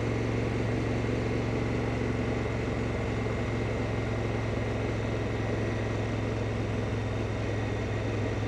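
Honda Africa Twin's parallel-twin engine running steadily at cruising speed, with wind rush over it, heard from the moving motorcycle.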